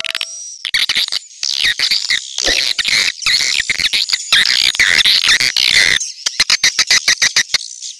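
Swiftlet lure-call recording: a dense, high twittering chatter of swiftlets, changing about six seconds in to a rapid train of sharp clicks.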